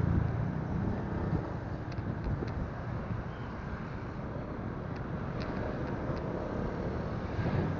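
Motorcycle riding sound picked up by a phone: wind buffeting the microphone over a steady rumble of engine and road noise, a little louder at the start and near the end.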